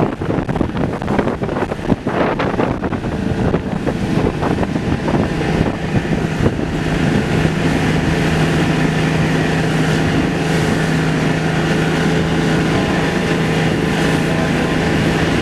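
Motorboat engine running under way, with wind buffeting the microphone; about seven seconds in the engine settles into a steady drone.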